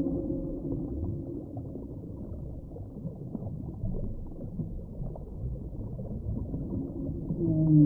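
Underwater ambient noise, a low rumbling hiss with faint crackles. A whale call fades out at the start, and another low whale call with several pitched tones begins near the end.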